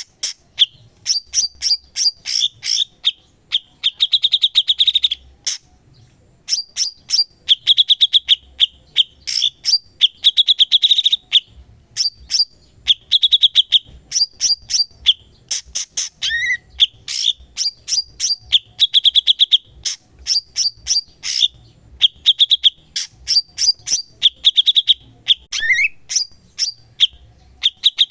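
A cucak cungkok singing continuously and energetically: phrase after phrase of rapid sharp chips and buzzy rattling trills, with a few short rising whistles in between.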